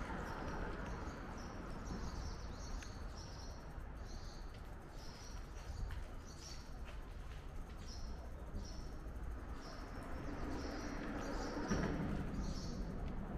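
Birds chirping in short, repeated high calls over a low, steady rumble of a bicycle ride.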